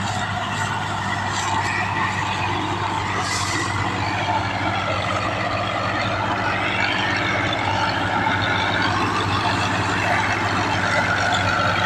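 Tractor diesel engine running steadily, its level creeping up slightly toward the end.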